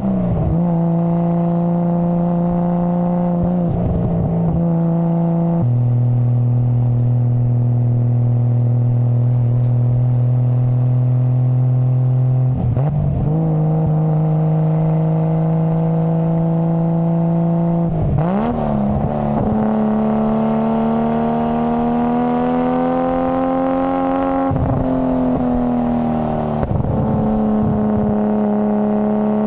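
Nissan Skyline GT-R R33's RB26 twin-turbo straight-six engine and exhaust running, held at steady engine speeds for several seconds at a time, with brief breaks where the pitch dips and settles at a new level, about six times.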